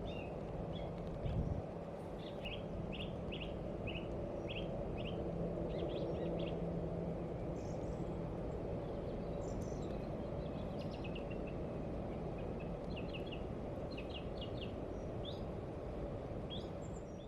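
Birds chirping outdoors: short high calls, often in quick runs of two to four, scattered throughout, over a steady low background rumble.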